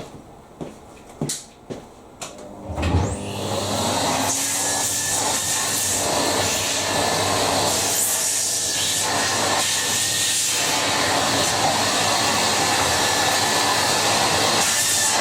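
A few knocks as a Numatic Hetty canister vacuum cleaner is handled, then about three seconds in its motor switches on and spins up, and it runs steadily.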